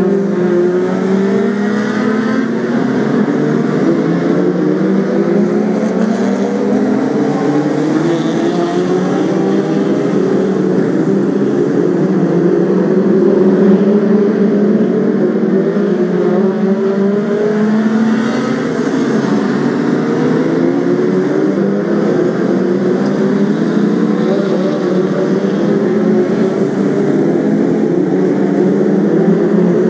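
A pack of BriSCA F2 stock cars racing, several engines at once, their pitch repeatedly rising and falling as the cars accelerate and lift.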